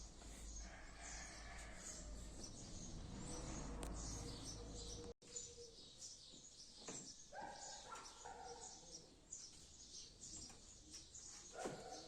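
Faint bird chirping in the background, with a brief dropout about five seconds in.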